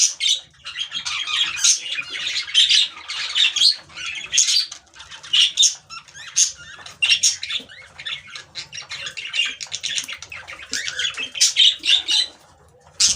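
Many small cage birds chirping and squawking in a dense, continuous chatter, with a short lull near the end.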